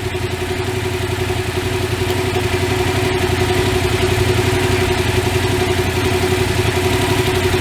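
Yamaha MT-07's 688 cc two-cylinder four-stroke engine idling steadily, slowly growing a little louder.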